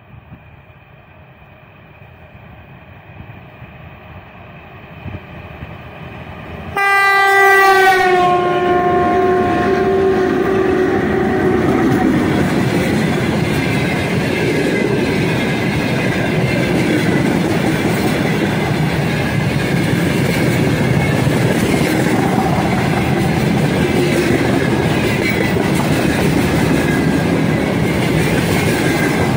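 A freight train passing close by. It is faint and growing at first; about seven seconds in the 4ES5K 'Ermak' electric locomotive sounds its horn, a chord of several tones whose pitch drops as it goes by and fades over a few seconds. Then comes the steady rumble and clickety-clack of tank cars rolling past.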